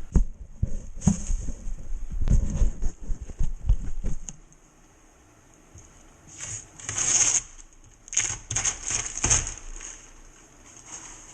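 Knocks and clatter of hand tools and material being handled during drywall repair, then several short scraping strokes, each about a second long.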